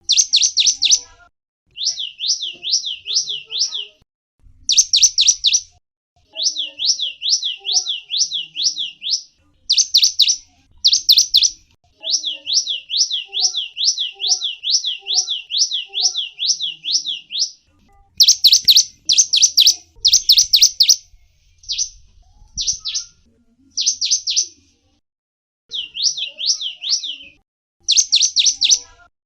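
Gelatik wingko songbird chirping in rapid trills: runs of quick, high, downward-sliding notes, about six to eight a second, each run lasting a second or two with short pauses between, a little louder and denser around the middle.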